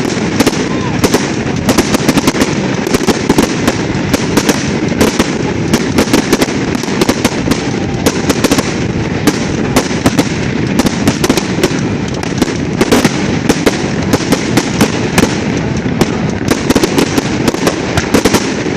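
Fireworks grand finale: a dense, continuous barrage of shell bursts, many sharp bangs and crackles a second over a steady rumble.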